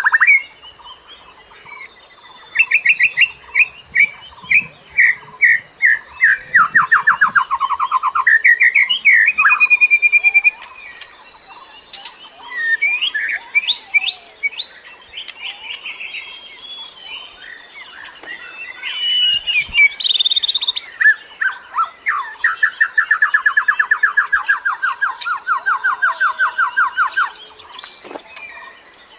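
Songbird chirping and singing in varied phrases of whistles, sweeps and trills, with a series of rapid notes early on and a long, fast, even trill near the end. This is birdsong of the kind played as a lure to call in birds.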